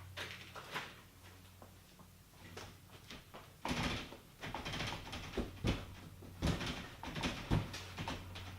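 Irregular knocks and thumps, sparse in the first few seconds and coming thick and fast from a few seconds in.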